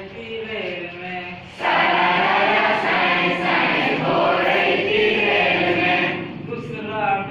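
A group of voices singing a Hindi children's train rhyme, without accompaniment. About one and a half seconds in, many voices come in together much louder, then thin out again near the end.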